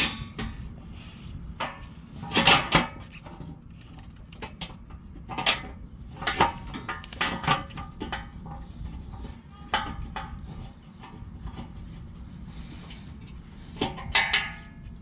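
Irregular metallic clinks and clunks of a truck's skid plate and its bolts being handled and fitted by hand, with louder clanks about two and a half seconds in and again near the end.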